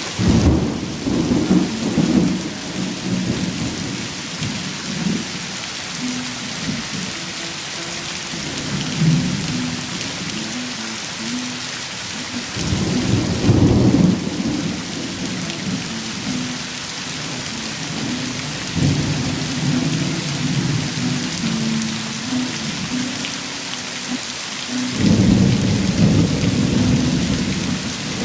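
Heavy rain falling steadily with rolling thunder. The rumbles swell up three times: at the start, about halfway through and near the end.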